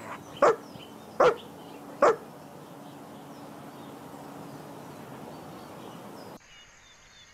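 A dog barking three times, short sharp barks evenly spaced less than a second apart, over a faint outdoor background with small bird chirps that cuts off suddenly about six seconds in.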